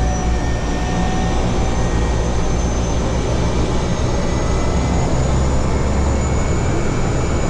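Steady engine and propeller drone of a skydiving jump plane, heard from inside the cabin during the climb, with a low hum and a few thin constant whines over it.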